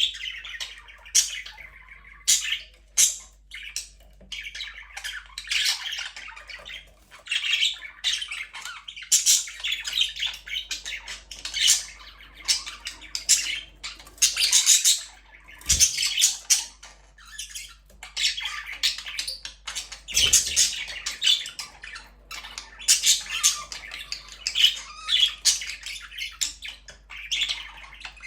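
Budgerigars in an aviary chattering: a busy mix of overlapping chirps, warbles and sharp squawks that comes and goes in bouts every few seconds.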